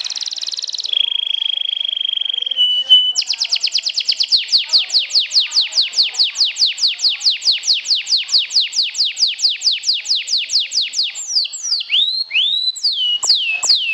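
Domestic canary singing: a held high whistled note, then a long fast trill of repeated falling notes, about seven a second, breaking into slower swooping notes near the end.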